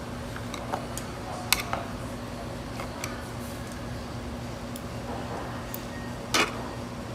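Scattered light clinks and taps of utensils against dishes, over a steady low hum. The sharpest clink comes about a second and a half in, and a longer clatter about six seconds in.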